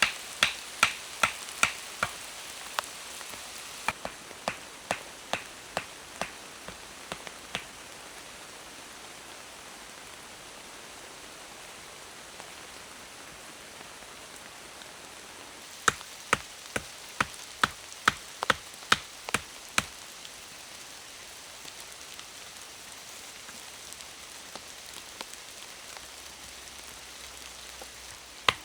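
Steady rain falling, with runs of sharp, rhythmic knocks about two or three a second through the first seven seconds or so and again around the middle.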